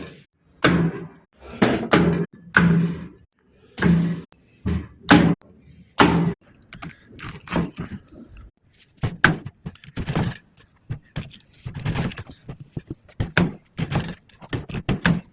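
Repeated dull thuds, about one a second at first, then lighter and more frequent knocks.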